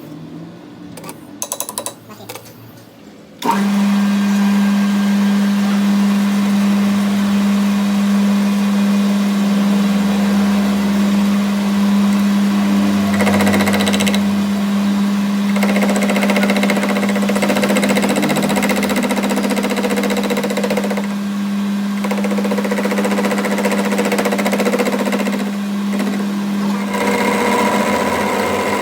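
A workshop machine switches on about three and a half seconds in and runs steadily with a strong hum and a noisy layer over it. Before that there are a few light clicks and taps.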